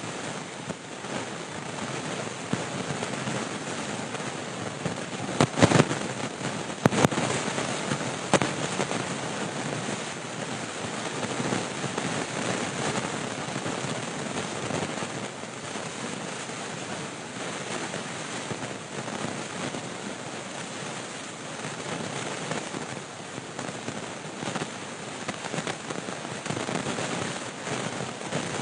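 Steady roar of storm wind and heavy rain on the microphone, with a few sharp loud knocks about five to seven seconds in.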